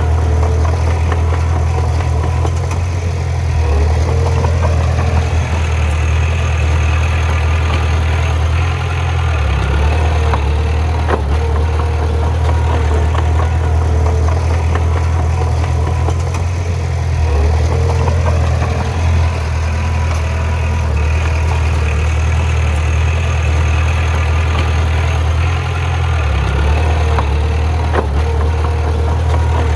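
A bulldozer's heavy diesel engine running steadily under work, its low pitch shifting a few times, with a few sharp clanks.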